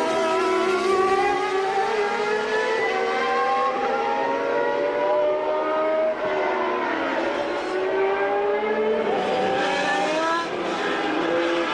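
Formula One cars of the 1989 season, with 3.5-litre naturally aspirated engines, running at high revs on track. Several engine notes overlap, their pitch climbing steadily, falling about halfway through, then climbing again.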